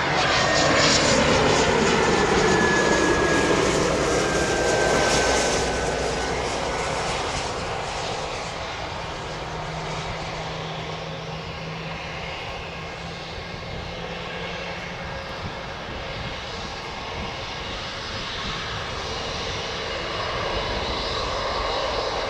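Bombardier Global 5000 business jet, its two Rolls-Royce BR710 turbofans loudest in the first few seconds as it passes, with a whine that falls in pitch. The noise then settles into a lower, steady rumble that swells slightly again near the end.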